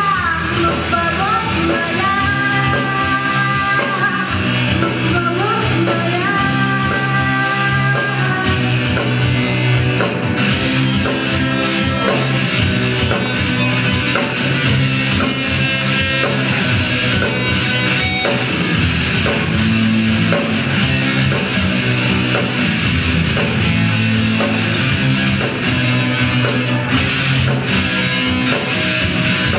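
Rock band playing loudly, with electric guitar, bass and drums in an instrumental stretch; held guitar notes glide up and down in pitch during the first several seconds.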